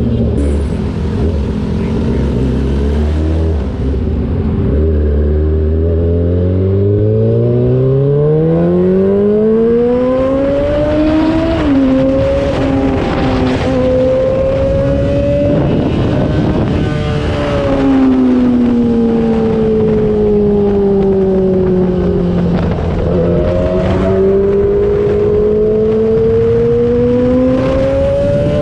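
2003 Yamaha YZF-R6's 600 cc inline-four engine under way: the revs climb steadily from low for several seconds, dip at a gear change about twelve seconds in, hold, then fall away gradually before it pulls and rises again near the end, with wind rush underneath.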